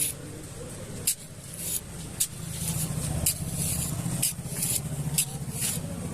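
A small motor running with a steady low hum that grows louder a couple of seconds in, with short hissing scrapes repeating about every half second.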